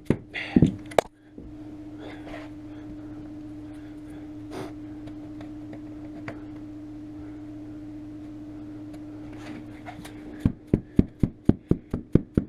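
Hammer tapping quickly on plastic trim tools, about five taps a second, driving the windscreen's rubber seal into place. The tapping stops about a second in and a steady low hum fills the pause, then the tapping starts again near the end.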